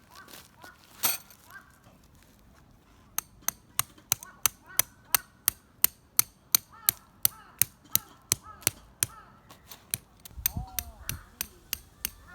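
A single sharp knock, then from about three seconds in a steady run of sharp knocks, about three a second, pausing briefly near the end; short chirps sound between them.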